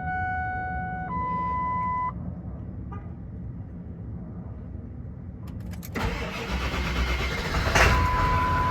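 Steady electronic chime tones for about two seconds, then a pause of a few seconds. At about six seconds in, a 1999 Ford F250's 7.3 L turbo-diesel V8 cranks and fires, running from a cold start without the block heater plugged in. A short chime sounds again near the end.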